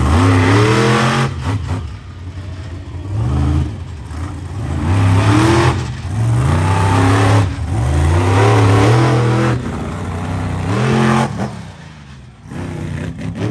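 Monster truck engine revving hard again and again, its pitch climbing and dropping with each of about six bursts of throttle, then easing off near the end.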